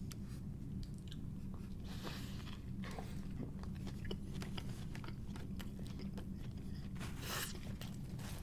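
A person chewing and biting into a burger close to the microphone: small crunches and mouth clicks over a steady low hum, with a short swish about seven seconds in.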